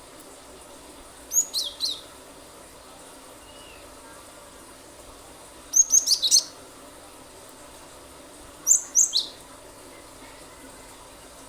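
Cinereous tit (gelatik batu) singing in three short bursts of sharp, high, quickly falling notes: about a second in, near the middle, and near the end.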